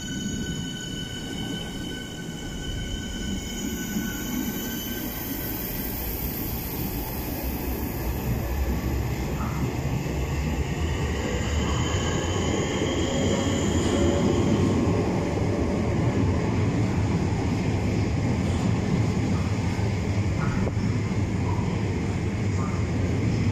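Southeastern electric multiple-unit train pulling out of the platform and gathering speed past, its wheels and motors rumbling steadily louder. A thin high ringing squeal fades away over the first several seconds.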